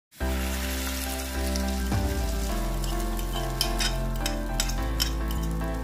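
Beaten egg poured onto potato slices frying in a hot pan, sizzling steadily, with a few sharp clinks of a fork against the plate about halfway through. Background music with sustained notes plays over it.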